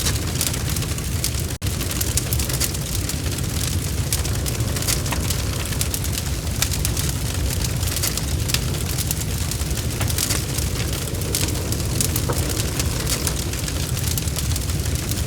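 Wood logs burning in a fireplace: a steady low rumble with constant dense crackling and popping. The sound cuts out for an instant about one and a half seconds in.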